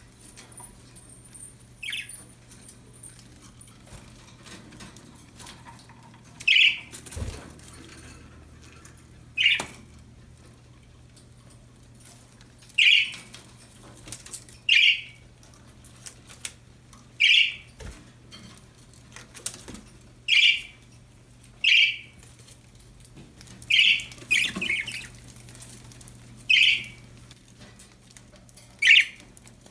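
Pet budgerigars giving short, sharp chirps, about one every two or three seconds, with scattered light knocks and rustles between them.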